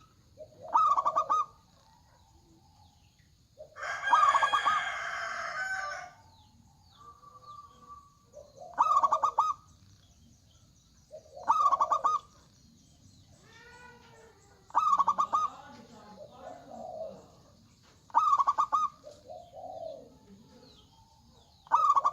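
Zebra dove (perkutut) singing its cooing song, a quick stutter of notes ending in a lower coo, repeated about every three seconds. A louder, longer two-second call breaks in about four seconds in.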